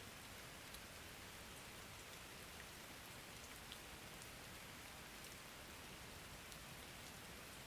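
Soft, steady rain: an even hiss with a few faint, separate drop ticks.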